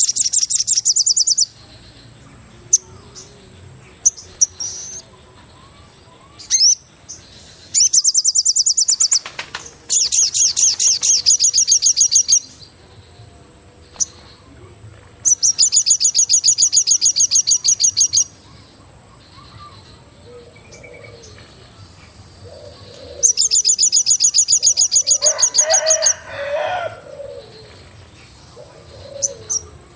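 Forest ambience with a bird giving loud, fast, high trills in five bursts, each one to three seconds long, separated by pauses. A steady thin high tone runs beneath throughout, and fainter lower calls come in near the end.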